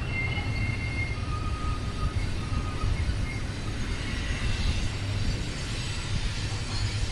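BNSF freight train cars rolling past on the rails, a steady rumble with faint, thin wheel squeals in the first couple of seconds.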